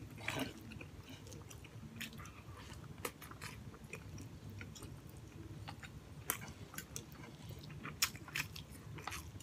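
A person chewing pork hock stew and rice, with scattered sharp mouth clicks and smacks.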